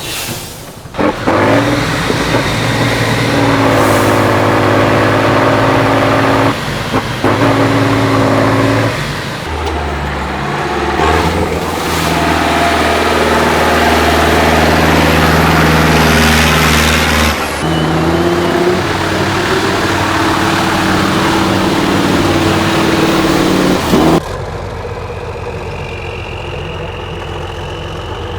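Heavy off-road trial truck engines running hard under load, in a string of short clips that cut abruptly from one to the next. Near the end one engine runs more quietly and steadily.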